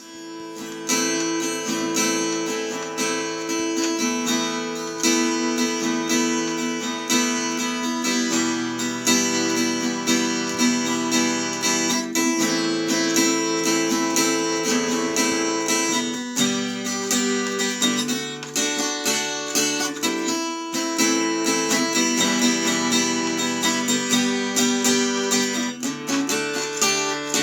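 Instrumental acoustic guitar music, strummed and picked chords changing every few seconds.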